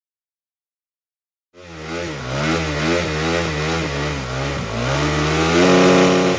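After about a second and a half of silence, a dirt bike engine runs under throttle, its pitch rising and falling repeatedly, then climbs to a louder, steadier rev near the end.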